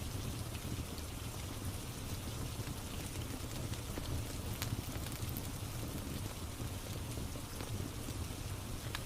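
Steady rain with a few sharp crackles from a wood fire in a fireplace.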